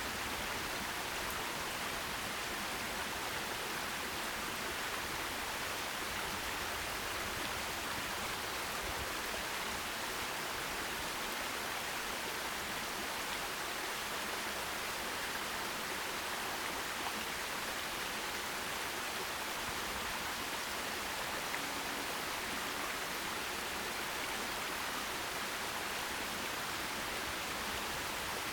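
Forest stream flowing in a steady, even rush of water, strongest in the upper middle of the range.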